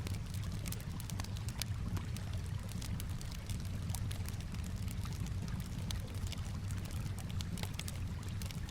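Campfire crackling in quick irregular snaps over calm water lapping, with a steady low rumble underneath.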